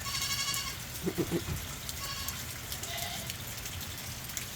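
Goats bleating: a short, quavering bleat at the start and a fainter call about three seconds in, over the steady hiss of falling rain.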